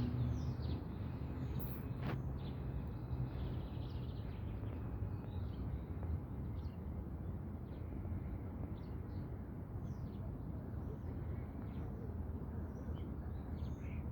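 Outdoor ambience: a steady low rumble with many short, scattered high bird chirps. A low hum fades out in the first few seconds.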